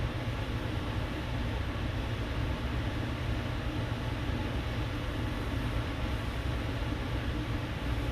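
Steady low hum with an even hiss over it, unchanging throughout: constant background machine or room noise.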